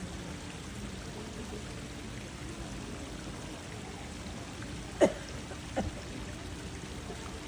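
Steady rushing background noise like running water, broken by two sharp knocks a little under a second apart, the first the louder.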